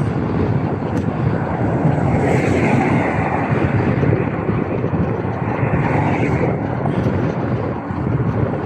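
Wind buffeting the microphone and tyre hiss while riding a Marin Gestalt X10 gravel bike on wet roads in the rain, with a louder swell of hiss from about two to six and a half seconds in.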